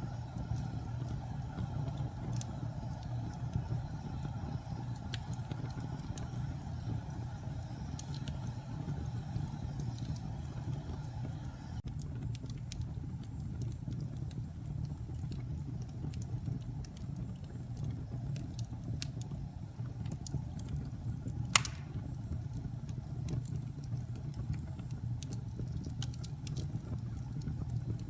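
Wood fire burning in a fireplace: a steady low rumble of flames with scattered small crackles and one sharp pop about two-thirds of the way through.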